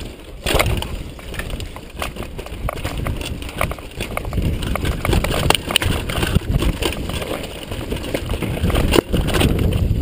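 Downhill mountain bike rattling over a rough trail: a continuous rush of tyres on dirt and rock, broken by frequent sharp knocks and clatters from the bike.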